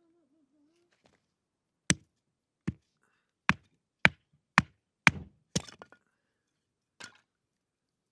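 A run of eight sharp chopping strikes, about two a second, with a gap of over a second before the last one.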